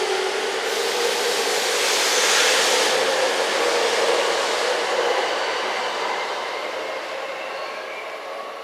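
An E231-series electric commuter train departing and accelerating away. Its traction motors give a steady whine that slowly rises in pitch over the running noise of the cars. The sound fades through the second half as the last car leaves.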